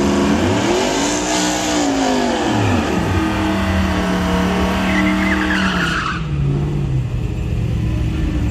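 Vehicle engine revving up and down, then held at high revs with tyres squealing and skidding, as in a burnout at the drag strip. The squeal and high revs stop about six seconds in, leaving the engine running lower.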